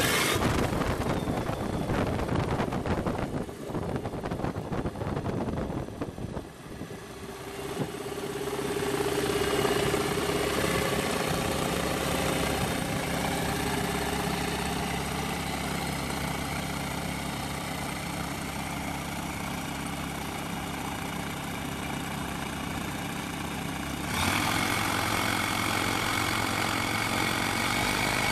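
SP2000 light aircraft's engine and propeller starting up. It runs rough and uneven for the first several seconds, then settles into a steady idle about eight seconds in, and the revs step up near the end.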